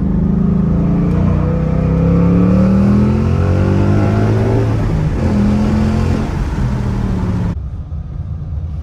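Mustang GT's 5.0 Coyote V8 under hard acceleration, heard from inside the cabin. It revs up to about 5000 rpm, with a brief dip in pitch about five seconds in. Near the end it cuts sharply to the engine idling quietly.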